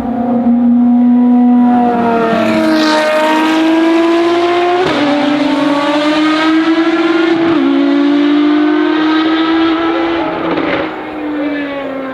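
Ferrari FXX Evoluzione's V12 engine accelerating hard on track, its pitch climbing and dropping sharply at upshifts about five and seven and a half seconds in. The pitch then falls and the sound grows fainter near the end.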